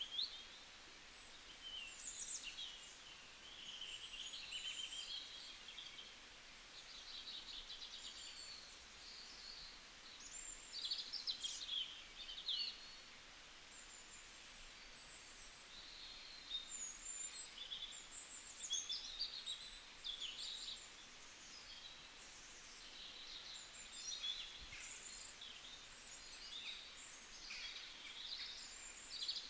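Several small songbirds chirping and singing, short high calls and trills overlapping throughout, over a faint steady background hiss.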